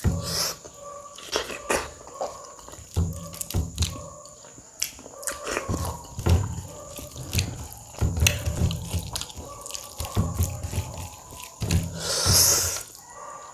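Close-miked eating sounds of a person chewing a mouthful of rice with curry and dal: a steady run of wet clicks and smacks with soft chewing between them, and a longer hissing sound about twelve seconds in.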